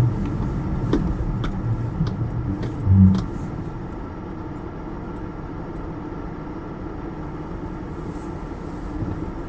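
Car driving, heard from inside the cabin: a steady low engine and tyre rumble. A few faint clicks sound early on, and a low thump about three seconds in is the loudest moment.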